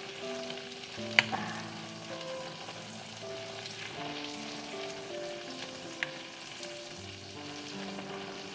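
Onions, chillies and tomatoes sizzling in a hot wok, with a soft background melody of held notes. Two sharp clicks stand out, about a second in and about six seconds in.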